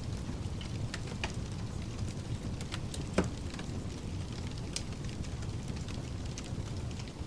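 Fireplace crackling, with scattered small pops and one louder pop about three seconds in, over a steady low rush of pink noise.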